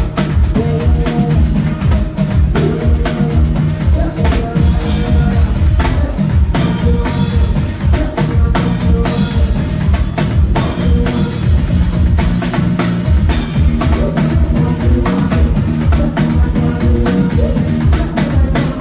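A live band playing an instrumental groove through the PA: a drum kit with kick, snare and rimshots over a bass line and sustained keyboard or guitar notes.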